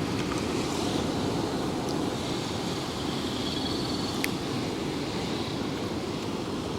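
Steady rush of sea surf washing on the shore, mixed with wind. A single sharp click comes a little past four seconds in.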